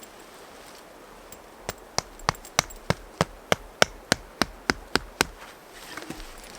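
About a dozen sharp knocks in an even rhythm of roughly three a second, starting a couple of seconds in and stopping abruptly, like something being struck repeatedly with a tool.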